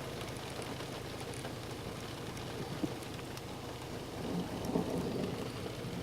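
Thunderstorm: steady rain, with a low rumble of thunder swelling about four seconds in.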